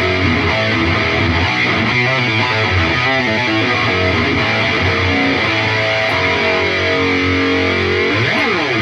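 Distorted electric guitar played through an Atomic AmpliFire modeler pedal and heard through cheap computer speakers, a run of notes and chords with a quick pitch swoop down and back up near the end.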